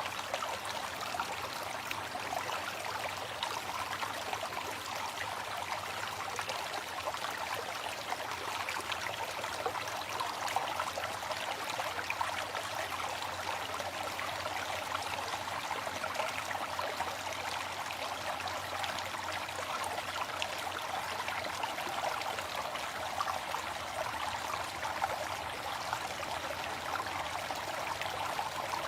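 Waterfall: water falling and splashing in a steady, unbroken rush, mostly in the middle and upper range with little deep rumble.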